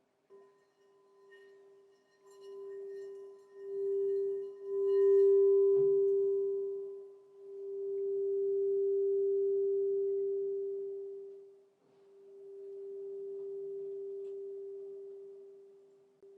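Crystal singing bowl sounding one steady, pure low tone, lightly struck at the start, its volume swelling and fading in slow waves several seconds long. A soft knock about six seconds in.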